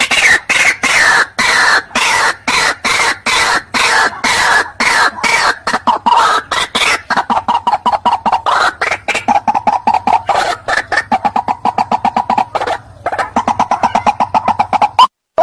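White-breasted waterhen (teruwok) calling: a fast, unbroken run of harsh clucking notes, many to the second, that breaks off briefly near the end and then resumes.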